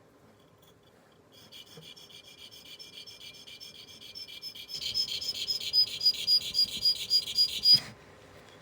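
Dental curette blade (a Barnhart curette) drawn in quick repeated strokes across a water-wetted sharpening stone to sharpen its cutting edge. It makes a high, squeaky rasp about three strokes a second that grows louder about halfway through and stops abruptly near the end.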